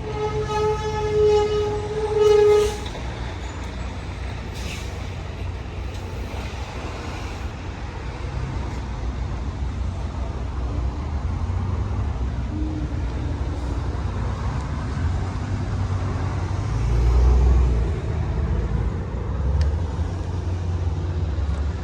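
A vehicle horn sounds one held note for about two and a half seconds, over a steady low rumble of vehicles that swells for a moment about three quarters of the way through.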